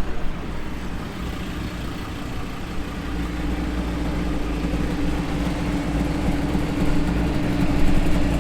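A car engine idling steadily, a low drone joined about three seconds in by a steady hum, growing slightly louder toward the end.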